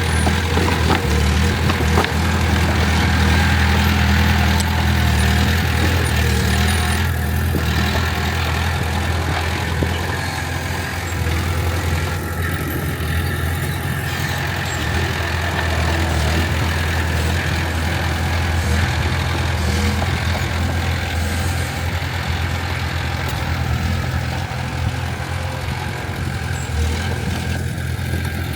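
Heavy diesel earthmoving machinery running steadily: a continuous low engine drone with a few faint knocks.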